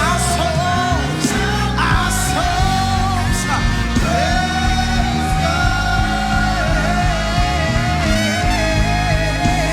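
Live praise and worship music from a gospel band: a long, wavering sung melody held over steady bass notes and keyboard, with cymbal hits near the start.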